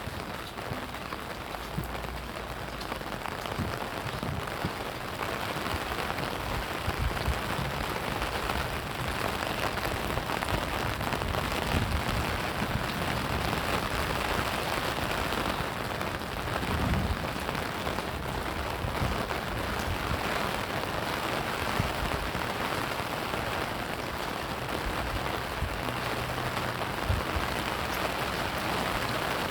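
Steady rain falling on surfaces, with a few brief low thuds mixed in.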